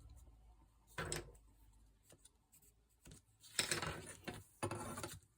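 Sheets of paper being handled and torn by hand, two at a time, in three short strokes: one about a second in and two near the end.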